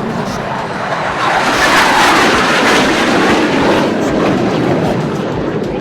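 BAE Hawk jet trainers flying past low: a loud jet rush that swells over about two seconds, holds, and fades away near the end.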